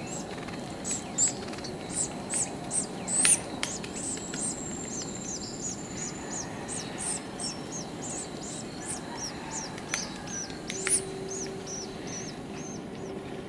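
Forest birds chirping: a busy run of short, high, rapidly repeated notes with a few sharp clicks, and one long thin whistle held for a couple of seconds, over a steady low background hiss.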